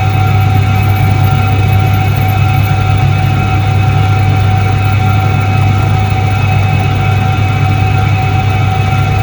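Soviet Iset-3 washing machine (1978) running, a steady unbroken hum with a strong low drone and a few constant higher tones.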